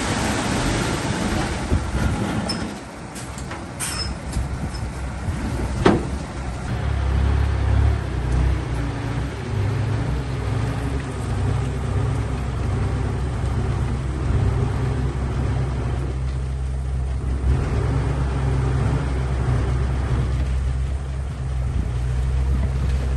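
Diesel engine of heavy earthmoving machinery running steadily with a low rumble. In the first few seconds there is a rushing noise and a few clicks, ending in a sharp knock about six seconds in.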